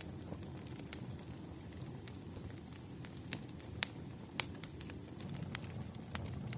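Firewood burning and crackling: irregular sharp pops and snaps, two louder ones near the middle, over a low steady rumble of the fire.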